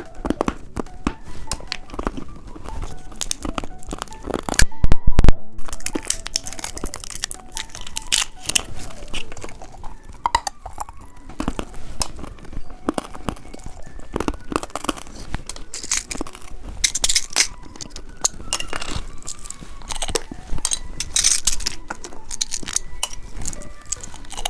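Plastic candy wrappers crinkling and tearing, and hard candy being bitten and crunched in a series of crackles, the loudest about five seconds in, over faint background music.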